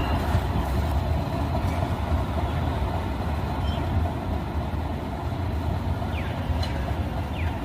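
Light rail train running with a steady low rumble that slowly fades as it moves off.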